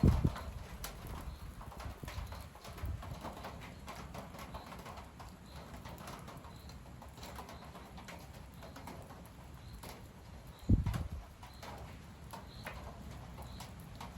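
Strong gusty wind blowing through large trees and across the microphone, a steady rumbling hiss. Two sudden heavy buffets of wind hit the microphone, one at the start and one about two-thirds of the way through.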